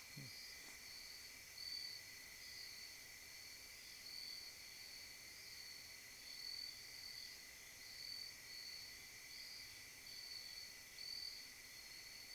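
Faint chorus of night insects: a steady high trill with a higher, pulsing trill that swells about once a second.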